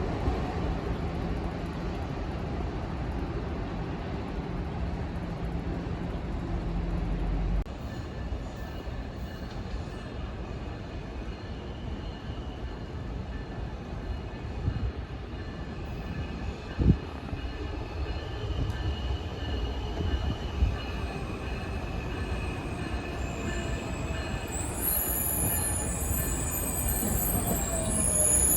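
A train running on the rails with a steady rumble. The deep low part of the rumble drops off abruptly early on, there is a single sharp clunk partway through, and high-pitched wheel squeal builds toward the end.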